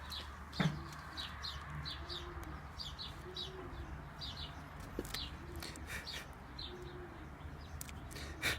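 Pigeons cooing, a low arching call repeated about once a second, under many quick high bird chirps. A few sharp clicks stand out, the loudest about half a second in and another just before the end.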